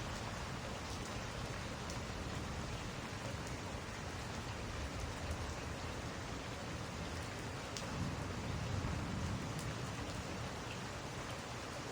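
Steady rain falling, with a few faint ticks scattered through it and a low rumble that swells about eight seconds in.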